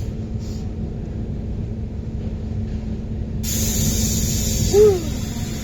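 Fairground ride machinery humming and rumbling steadily. About three and a half seconds in, a loud hiss of released air starts, like a ride's pneumatic brakes or restraints. A short rising-and-falling whoop near the end is the loudest sound.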